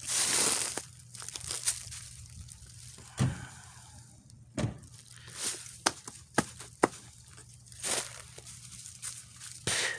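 Handling noises of hands-on repair work: scattered sharp clicks and knocks with rustling. There is a louder scraping burst at the start and another near the end, over a faint low steady hum.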